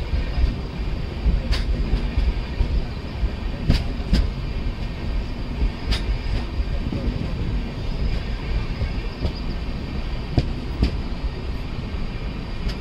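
A passenger coach of an express train running on the rails, heard from its open window or doorway: a steady low rumble of wheels on track and rushing air, with occasional sharp clicks, some in pairs about half a second apart.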